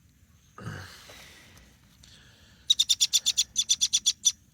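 Baby bird begging for food: a fast run of high, sharp chirps, about ten a second, in two bursts near the end. A short rustle comes about half a second in.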